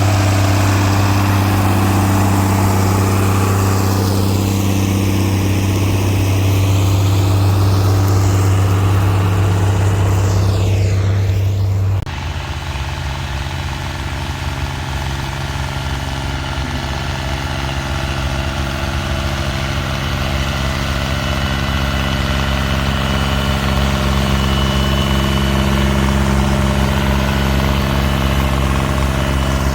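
Tractor engines running steadily, with a sweeping, phasing shimmer in the sound for several seconds as a tractor moves. About twelve seconds in the sound cuts abruptly to another steady engine with a deeper hum.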